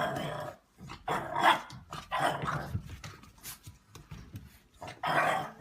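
A dog barking in about four short bursts spread across a few seconds.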